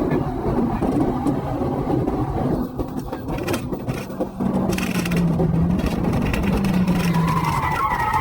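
Police cruiser driving hard, heard from inside the car: heavy road rumble with scraping and rattling from a blown tyre. A steady low drone runs through the middle, and a wavering higher tone comes in near the end.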